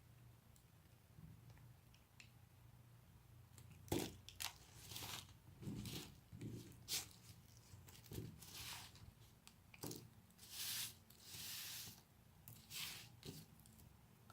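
Blade cutting into a bar of soap: a series of about a dozen crisp crunching, scraping strokes starting about four seconds in, the first one the sharpest.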